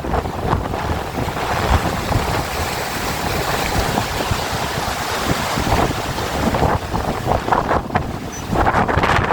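Strong wind gusting and buffeting the microphone: a loud rushing noise that swells and eases without a break.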